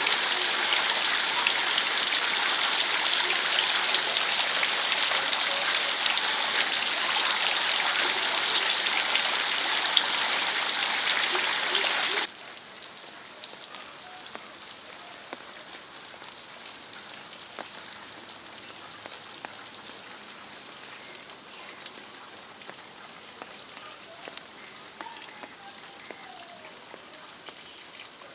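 Rain falling in a steady, loud hiss that cuts off suddenly about twelve seconds in, giving way to a much quieter, lighter patter of rain with scattered drop ticks.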